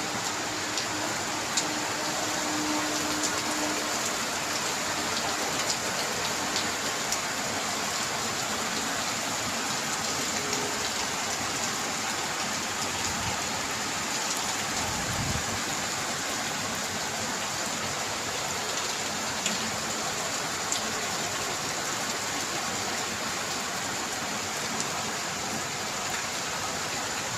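Steady heavy rain falling, with many sharp drop ticks on a hard surface. A brief low rumble comes about halfway through.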